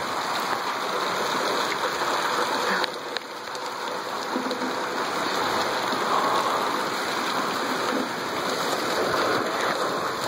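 Heavy downpour of rain, a steady rushing hiss.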